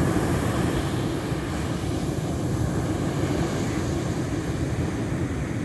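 Ocean waves washing onto the shore: a steady, deep rushing surf noise, a little stronger in the first second as a wave comes in.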